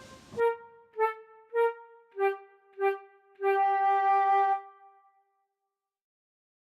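A solo woodwind melody closing out: five short notes about two a second, stepping down in pitch, then one long held note that stops just under five seconds in.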